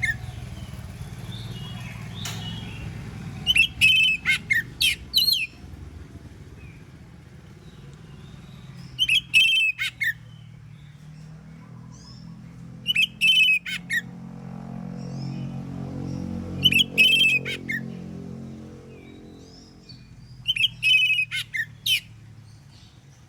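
Oriental magpie-robin (kacer) singing loud, rapid whistled phrases in five short bursts a few seconds apart. Under the song runs a low engine drone that swells and fades about halfway through.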